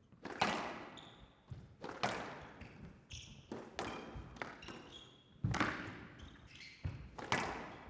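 Squash rally: the rubber ball cracks off rackets and the court walls at an irregular pace, each hit ringing briefly in the glass court, with short high squeaks of court shoes on the floor between shots.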